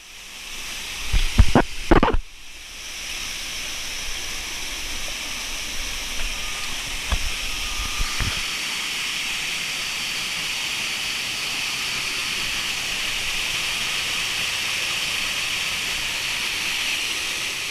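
Rushing water of a waterfall: a steady hiss that builds over the first few seconds and then holds. A couple of loud thumps come between one and two seconds in, with fainter knocks a few seconds later.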